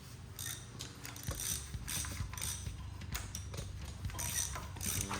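A hand ratchet wrench clicking in short strokes, about two a second, running down the clutch bolts.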